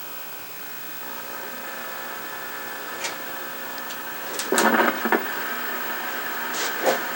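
A steady electrical buzz made of several fixed tones, getting louder about a second in. A few sharp clicks follow, then two short, louder buzzy bursts about halfway through and again near the end.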